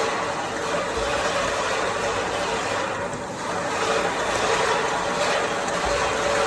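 Turntable-style auger powder filling machine running, a steady mechanical hum.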